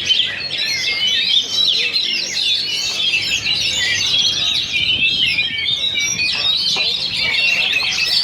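Oriental magpie-robins singing over one another without a break, a dense tangle of rapid whistles, trills and chatter.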